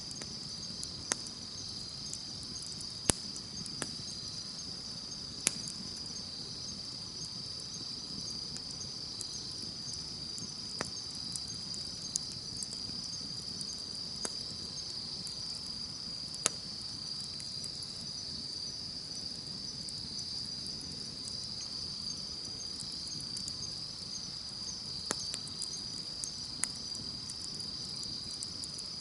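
Insects chirping in a steady, unbroken high chorus over a wood campfire, whose burning gives a low hiss and scattered sharp pops and snaps, a few of them louder than the rest.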